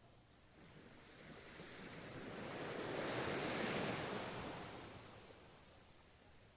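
Ocean waves breaking on a shore: one wave swells to a peak a little past the middle and washes back down.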